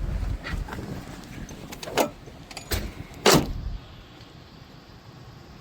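A few sharp clicks and knocks inside a parked car, with the loudest knock a little over three seconds in, over a low rumble that fades during the first two seconds.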